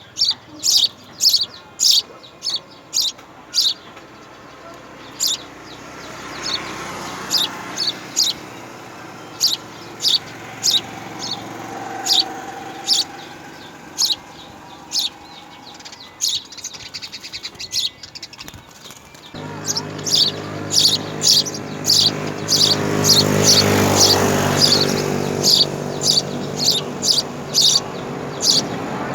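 Small birds chirping in short, high, repeated notes, about two a second, thinning out midway and picking up again. A low droning hum comes in suddenly about two-thirds of the way through.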